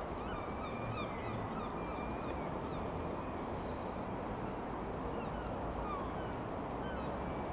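Scattered short bird chirps and calls over a steady low rumbling background noise.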